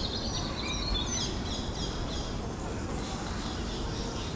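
Bird calls: a run of short, high chirping notes for the first two seconds or so, then only scattered faint notes, over a steady low background rumble.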